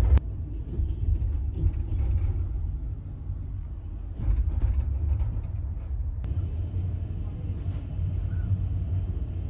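Steady low rumble of a moving double-decker passenger train, heard from inside a sleeper compartment, with one short click about six seconds in.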